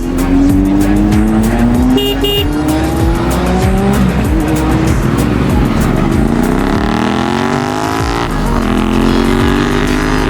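Sport motorcycle engines revving hard and accelerating, the pitch climbing, dropping and climbing again several times as gears change.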